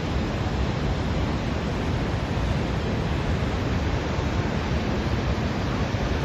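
Niagara Falls' water pouring, a steady, unbroken rushing noise.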